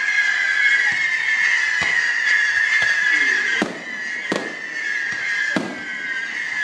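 Aerial fireworks bursting: a series of sharp bangs, the loudest about three and a half, four and a half and five and a half seconds in, over a steady high-pitched whine.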